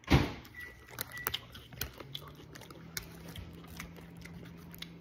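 A person biting into and chewing a crunchy Flamin' Hot Funyuns ring: one loud crunch right at the start, then scattered crisp crunches as it is chewed.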